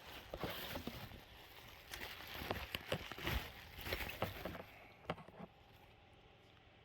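Rustling, crinkling and light clicks as a short-throw shifter is handled, dying away about five seconds in.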